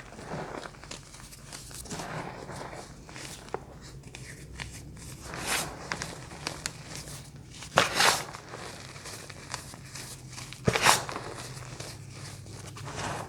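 Close-up crinkling and crunching of crunchy bars and similar crunchy things, a run of small crackles with a few louder crunches: one about five seconds in, a double one near the middle and another a few seconds later.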